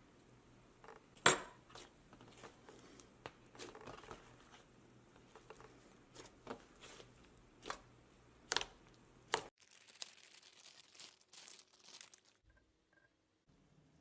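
Handling of small craft supplies on a tabletop: scattered clicks and knocks, one sharp loud snap about a second in, and crinkling of plastic about ten seconds in.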